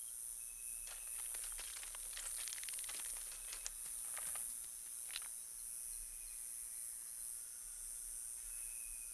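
Faint night ambience: a steady high-pitched insect drone, with scattered faint clicks and crackles through the first half.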